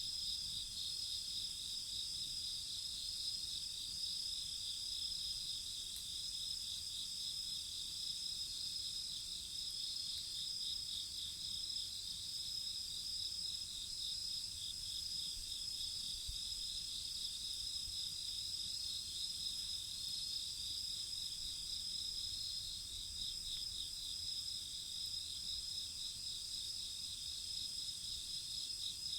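Chorus of crickets and other insects singing steadily: a fast-pulsing high trill over several continuous high-pitched tones.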